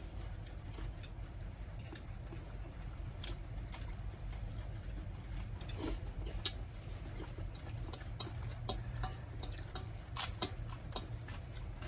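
Eating and utensil noises at a meal: scattered light clicks and taps, with a run of sharper clicks about eight to eleven seconds in, over a low steady hum.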